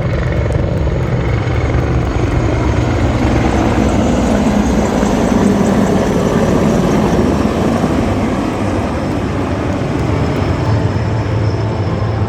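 Aircraft flying past low overhead, a dense engine and rotor-like drone that swells to its loudest around the middle and then eases off a little.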